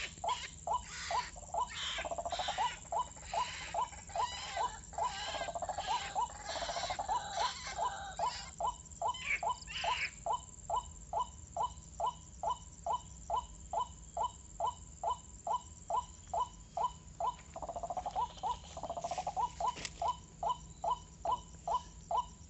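White-breasted waterhen (kuak-kuak) calling, a monotonous 'kwak' repeated evenly about twice a second throughout. A scratchy noise rides over the calls for about the first half.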